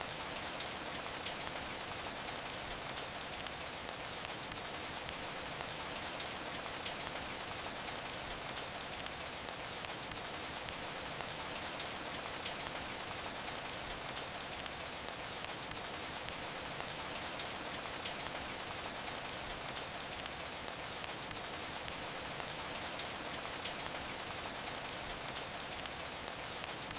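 Steady rain hiss with a wood fire crackling, sharp irregular pops over the rain.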